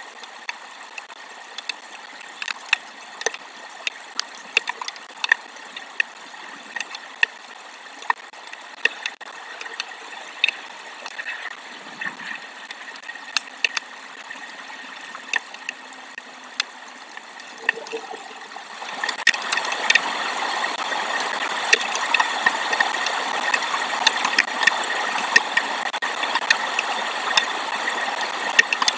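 Rain falling on the nest webcam's microphone and housing: a steady hiss with scattered sharp drop clicks, growing much heavier about two-thirds of the way through.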